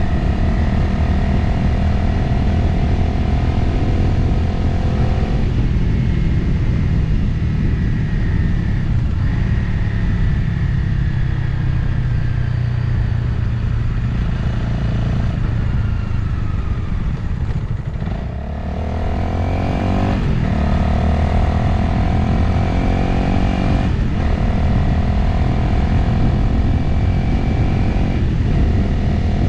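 Motorcycle engine running on the road, with wind noise. It eases off about five seconds in and slows near the middle, then accelerates, its pitch rising and briefly dropping three times as it shifts up through the gears.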